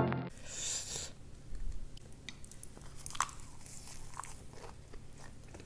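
A person biting and chewing a mouthful of food, with scattered small clicks every second or so.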